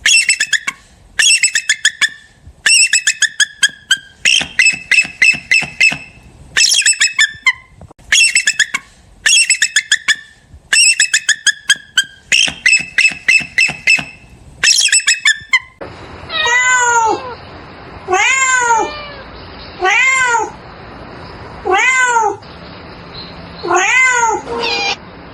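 Animal calls: a string of rapid trilled calls repeated about once a second, then five separate longer calls that rise and fall in pitch, spaced about two seconds apart.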